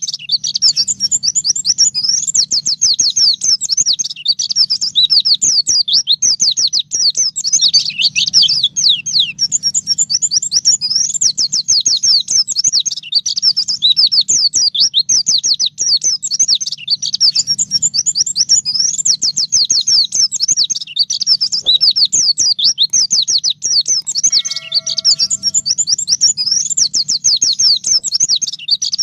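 White-eye (pleci) singing a fast, unbroken stream of high chirping notes in the 'ngalas nembak' style, with rapid downslurred phrases. A faint steady low hum runs beneath it.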